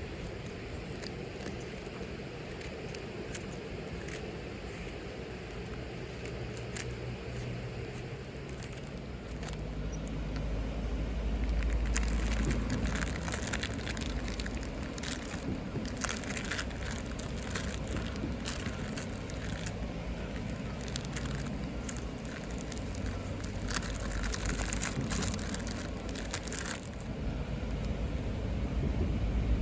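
Wood fire crackling with many sharp pops, thickest through the middle, over a low steady rumble.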